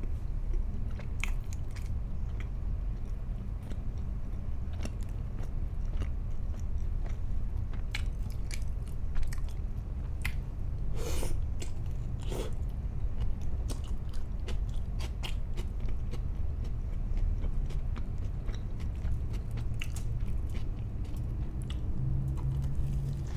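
A person biting and chewing food, with many scattered crisp clicks and crunches and two louder bites about a second apart near the middle. A steady low hum runs underneath.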